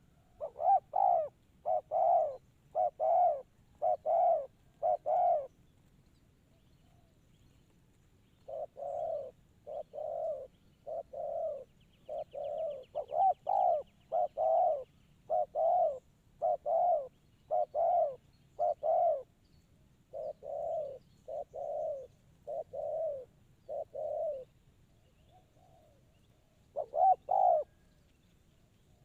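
Spotted dove (tekukur) cooing: a series of short coos about one a second, in a bout of five, then a long run of over a dozen after a pause, and two more near the end.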